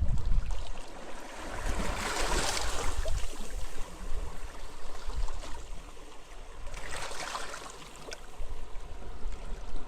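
Sea waves washing onto a beach, with two surges of wash about two and seven seconds in, over a low gusting rumble of wind.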